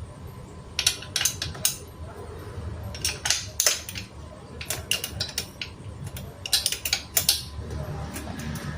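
Irregular metallic clinks and knocks of tools striking an exhaust muffler's metal casing, in short clusters of several strikes.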